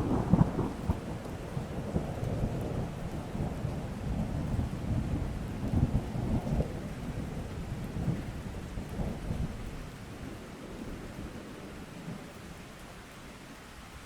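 Thunder rolling over steady rain: a sudden crack at the start, then a low crackling rumble that fades away over about ten seconds, leaving the rain hiss.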